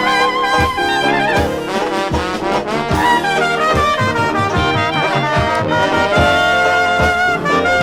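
Dixieland jazz band playing an instrumental passage, with trumpet and trombone lines weaving over a steady beat.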